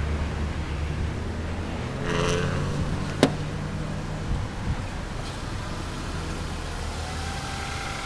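Steady low hum of a car engine idling, with one sharp click about three seconds in.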